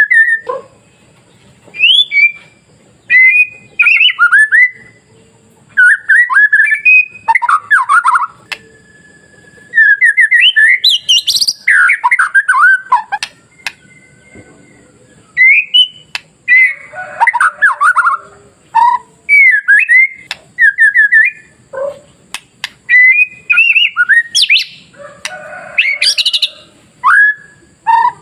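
White-rumped shama (murai batu) singing: loud, varied phrases of quick sweeping whistles and harsher notes, in short bursts separated by brief pauses.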